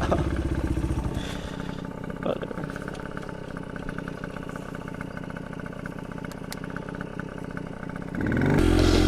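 Pit bike engine running as the bike is ridden, throttled back for several seconds and then revving up and running louder near the end.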